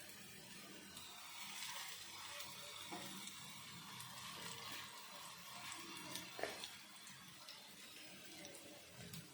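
Faint, steady sizzling of corn-potato tikkis shallow-frying in oil on a pan, with a few light clicks and taps.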